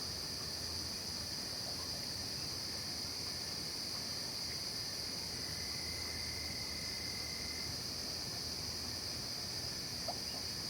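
Night insect chorus in a forest: a steady, high-pitched, unbroken trilling of crickets and other insects, with a fainter lower trill joining for a couple of seconds around the middle. A small tick sounds near the end.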